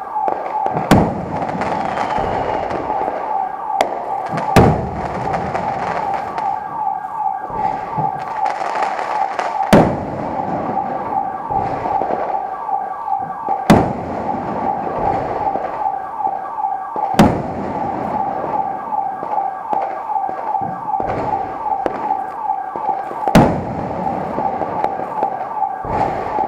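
Fireworks going off: about six sharp bangs several seconds apart, with smaller pops between them, over a steady high-pitched tone that runs throughout.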